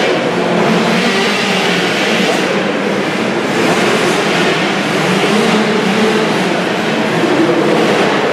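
Engines of several 65cc two-stroke motocross bikes racing, their pitch rising and falling as the riders rev and shift.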